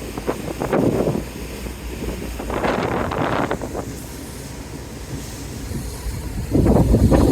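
Wind buffeting the microphone on the deck of a ferry under way, coming in gusts that swell and fade and grow louder near the end, over a steady low rumble from the ship.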